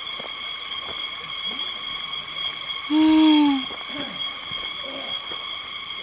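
A steady, high insect drone with one short, loud hooting call about halfway through that dips slightly in pitch.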